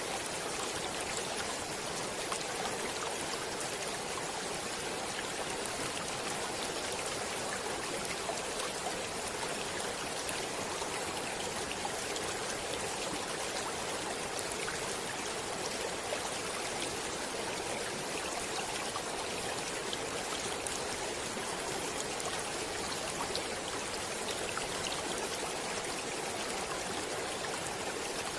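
Stream water running steadily over stones, an even splashing rush flecked with small droplet ticks.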